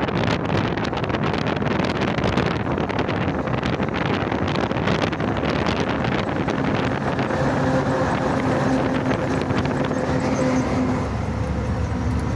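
Loaded truck on the move: engine running under a dense wash of road and wind noise, with many small knocks and rattles in the first half. From about six seconds in, a steady engine hum with clear tones comes through.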